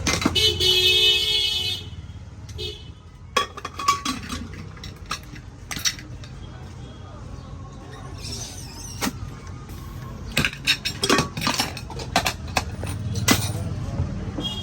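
Metal stove parts being tapped and clinked with tools in repeated sharp knocks, thickening to a run of quick strikes in the second half. A horn-like tone sounds for about the first two seconds.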